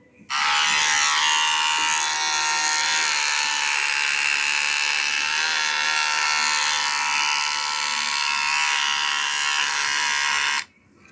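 Wahl Senior barber clipper running with a loud, steady, high buzz for about ten seconds, then switched off abruptly near the end. It is the clipper in the state the client handed it in, before repair.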